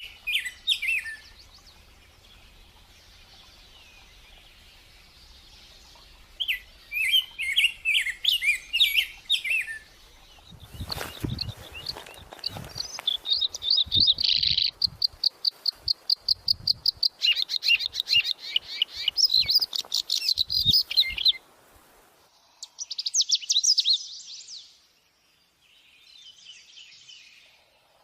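Sunbird singing energetically in bursts of high, rapid chirps and trills, with a long run of fast repeated notes in the middle. Low knocks come in under the song through that middle stretch.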